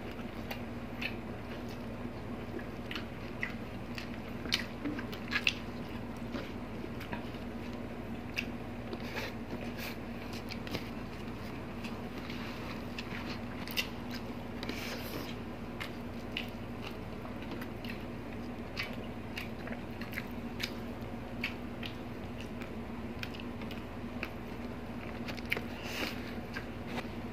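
Close-miked eating sounds: two people chewing and biting food eaten by hand, with scattered wet mouth clicks and small crunches over a faint steady hum.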